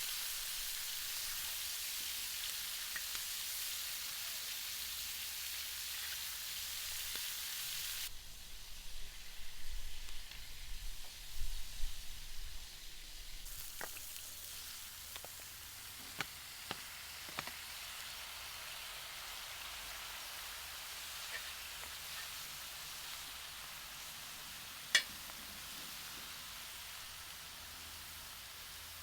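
Food sizzling as it fries on hot metal, a steady hiss that changes abruptly a few times, with a few seconds of louder, uneven noise about a third of the way in. There are a few light clicks, and one sharp click near the end.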